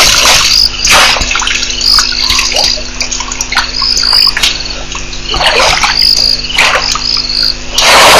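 Crickets chirping in short repeated high chirps over a steady low hum, with a loud rushing noise at the start and again near the end.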